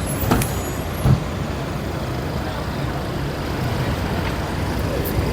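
Road traffic noise: a steady low rumble of passing vehicles, with a couple of short knocks in the first second or so.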